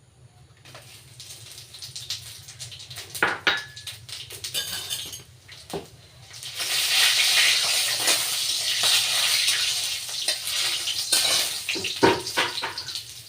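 A few utensil knocks and clinks, then, about six and a half seconds in, a loud steady sizzle starts as soaked soya chunks go into hot oil in a kadai. The sizzle eases off near the end, with a sharp knock.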